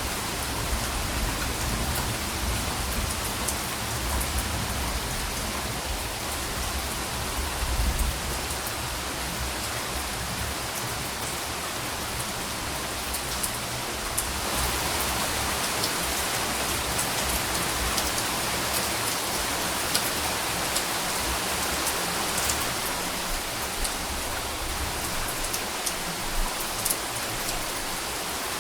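Steady rain falling on a surface, a dense even hiss with fine pattering drops. A low rumble sits under it during the first several seconds.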